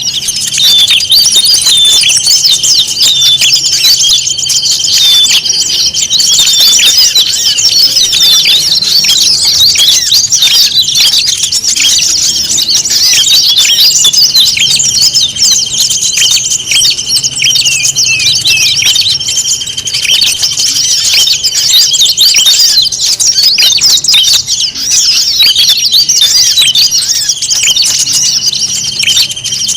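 Dense chorus of many small songbirds chirping and whistling over one another, as in a bird-lure recording made to call wild birds in. Under the rapid chirps runs a continuous high, steady trill.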